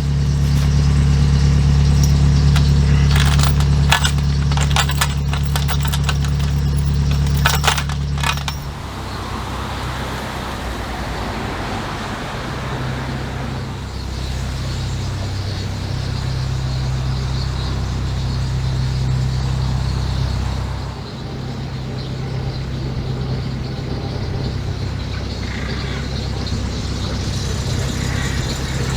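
Narrowboat's engine running steadily, with clicking and rattling over it for the first eight seconds. The engine note drops and changes about eight seconds in, and shifts again later.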